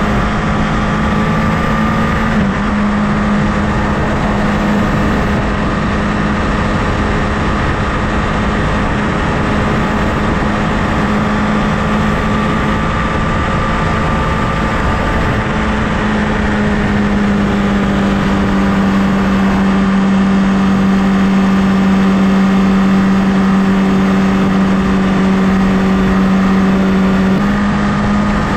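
Honda CBR1000RR inline-four engine running at a steady cruising speed over wind and road noise. Its pitch drops slightly a couple of times and picks back up near the end.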